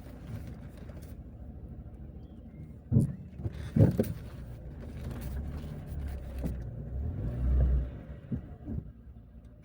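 Car driving over a rough road, a steady low rumble broken by sharp knocks and thumps as it goes over bumps; the two loudest knocks come about three and four seconds in.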